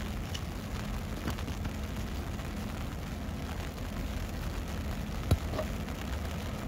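Steady low rumble of a distant CN diesel locomotive hauling a freight train of tank cars, with a faint engine hum. A single sharp knock about five seconds in.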